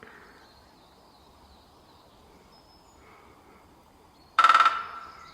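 Woodpecker drumming: one quick roll of rapid strikes lasting about half a second, near the end, on a resonant object that rings on briefly after it. Faint bird calls sound in the background.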